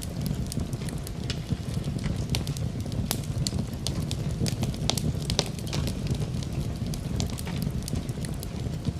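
Fire burning in a fireplace: a steady low rush of flames with frequent sharp, irregular crackles.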